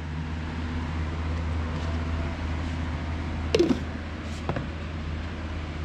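Steady low mechanical hum, with a short falling squeak about three and a half seconds in and a brief click a second later.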